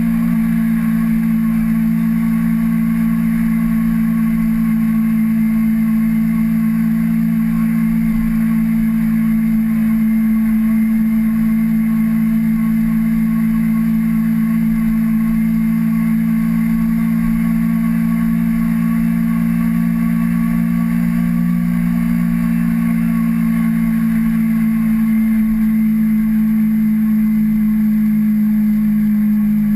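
Kawasaki Ninja 250R parallel-twin engine running at steady, fairly high revs, its pitch holding nearly constant with only slight drift.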